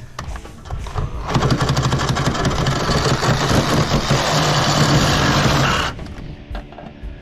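A handheld power tool motor runs steadily under load for about four and a half seconds, starting about a second in.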